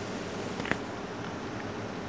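Steady rain of a thunderstorm, an even hiss, with one sharp tick a little after half a second in.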